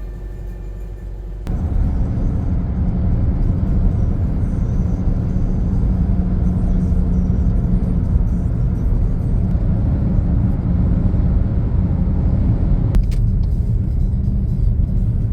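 A loud, steady low rumble of a vehicle in motion, cutting in abruptly about a second and a half in.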